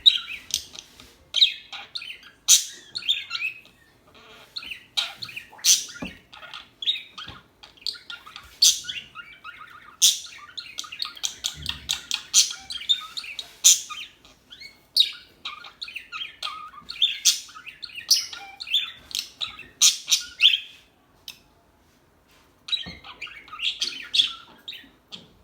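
Pet budgerigars chattering and chirping in quick, high, overlapping notes, with a lull of about two seconds near the end.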